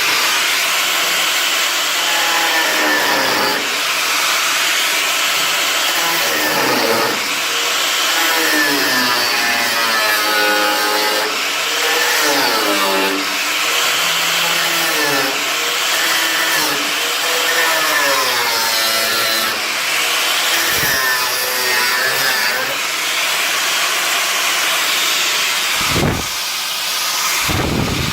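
Power cutting tool running continuously and biting into car body steel, its pitch sagging and rising as the load changes, while the bonnet hinge panel is cut out. There are a couple of short low thumps near the end.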